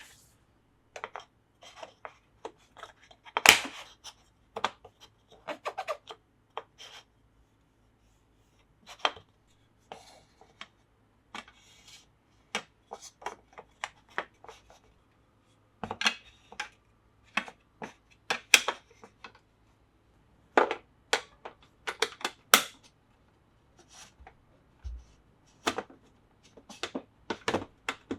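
Plarail plastic track pieces and parts clicking and clacking as they are handled and fitted together: irregular sharp clicks, some in quick clusters, with short pauses between.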